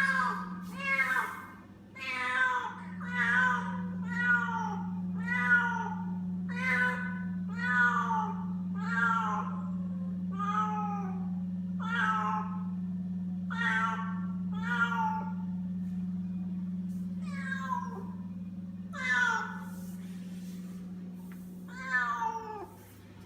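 Frightened feral kittens meowing over and over, short calls that mostly fall in pitch, about one a second, thinning to a few scattered calls near the end. A steady low hum runs underneath.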